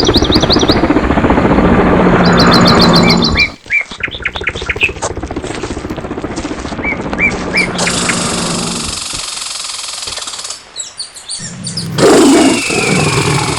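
Jungle animal sounds: rapid repeated bird chirps and spaced bird calls mixed with long, low animal calls. The sound changes abruptly at a few points, with the loudest call about twelve seconds in.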